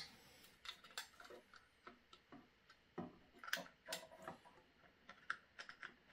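Faint, irregular small clicks and taps of plastic parts being handled as the 3D printer's touchscreen and its flexible ribbon cable are worked into place.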